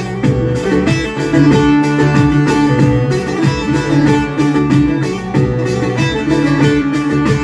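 Instrumental passage of Turkish folk music, led by a plucked string instrument playing quick repeated notes.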